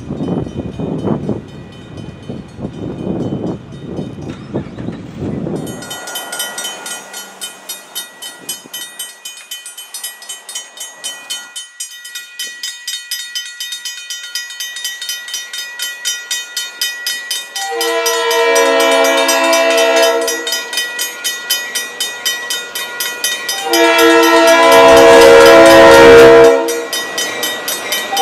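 Empty tank cars rolling over a street crossing, then a railroad crossing bell ringing in a fast even rhythm with the gates down. Over the bell, the approaching EMD GP9 diesel locomotive sounds its horn: a blast about two thirds of the way in and a longer, louder one near the end.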